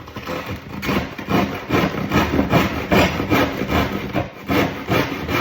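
Handsaw cutting through a worktop at a sink cutout corner, in steady back-and-forth strokes of about two a second.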